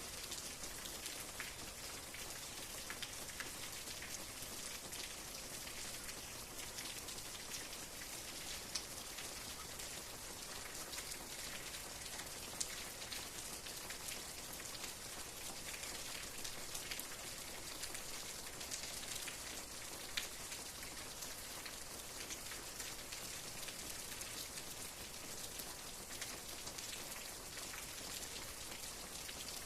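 Steady rain falling, a soft even hiss with many scattered drop taps, a few slightly louder than the rest.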